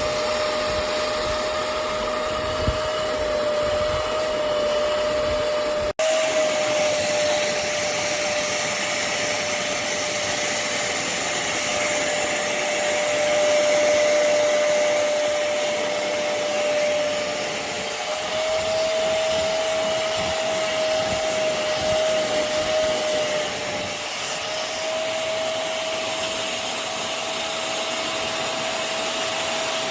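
Hoover CleanSlate Plus portable spot cleaner's suction motor running steadily, a loud whirring rush with a constant whine, cut off for an instant about six seconds in.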